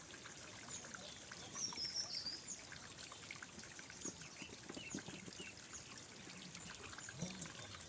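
Faint outdoor ambience of small birds chirping, with a brighter chirping phrase about two seconds in, over a light trickle of water.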